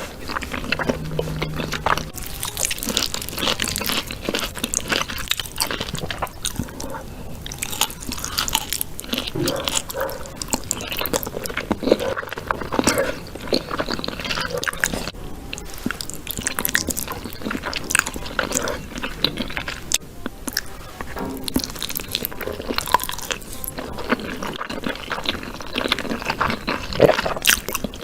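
Close-miked eating of whole chicken: crunchy bites and chewing, with frequent sharp crunches throughout.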